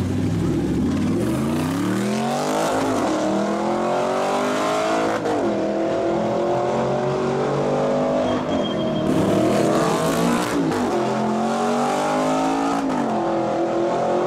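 Supercar engine accelerating hard through the gears: the revs climb, drop sharply at each upshift about 5 seconds in, again around 10 seconds and near the end, then climb again.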